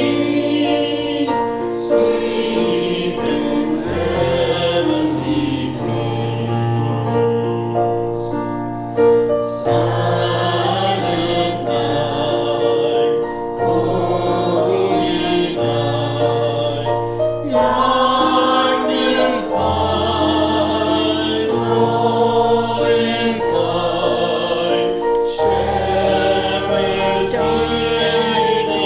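A choir singing a hymn with instrumental accompaniment, over held low bass notes that change every second or two.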